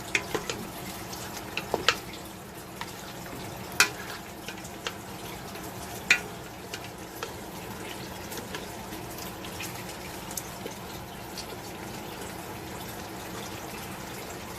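Browned chicken sizzling in a pot with curry sauce of onion, garlic and chili as it is stirred together, with sharp knocks of the utensil against the pot now and then.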